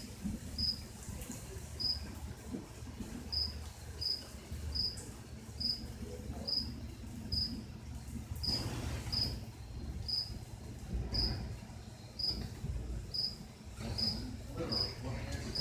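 Crickets chirping: a single high-pitched chirp repeating roughly once a second, over a low, steady background rumble.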